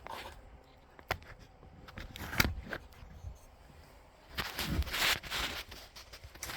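Hands working parts on a lawn tractor: a few sharp knocks and clicks, the loudest about two and a half seconds in, then a stretch of rustling and scraping about four to five seconds in.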